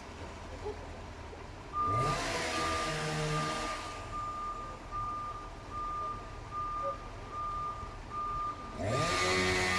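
Heavy vehicle's diesel engine revving up as it reverses, its reversing alarm beeping steadily a little under twice a second. The engine revs up again near the end.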